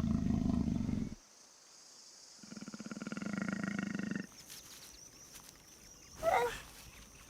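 Leopard calling with hoarse, rasping growls. One ends about a second in, and a second swells and fades between about two and a half and four seconds. A brief higher-pitched animal call comes about six seconds in.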